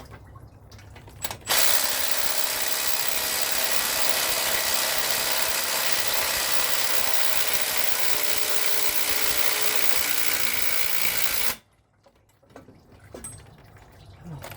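A handheld power tool runs steadily for about ten seconds, starting and stopping abruptly.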